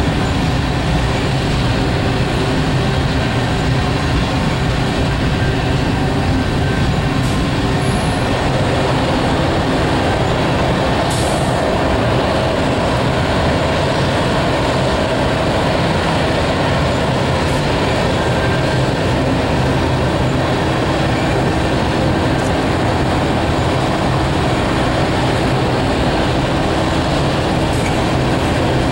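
Covered hopper cars of a slow freight train rolling past: a steady, even noise of steel wheels on the rails.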